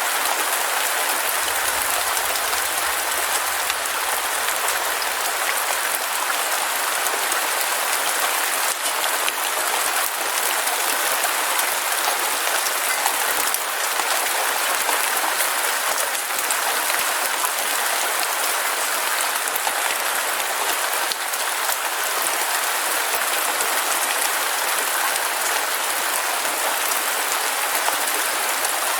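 Heavy rain falling steadily, a dense, even hiss of drops with no pauses.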